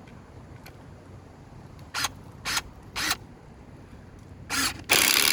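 Bauer 20-volt cordless impact driver blipped in three quick trigger bursts about half a second apart, then a fourth, then run steadily near the end as it drives a screw into a board. It is a single-speed tool, so the screw is started with short on-off pulls rather than a slow, steady speed.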